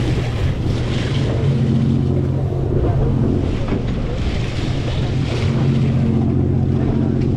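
A boat's engine running with a steady low drone, with wind and water noise swelling and easing over it.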